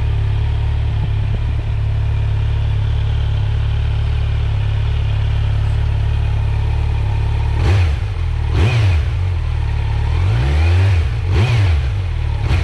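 A 2019 Kawasaki Z900's inline-four engine, warmed up, idling steadily and purring softly, heard close to the exhaust. From about eight seconds in it is blipped several times, the revs rising and falling back each time, held low because the new engine is still in its running-in period.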